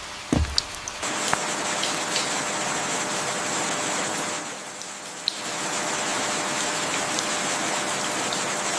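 A single knock about half a second in, then a steady rush of falling water that dips briefly near the middle.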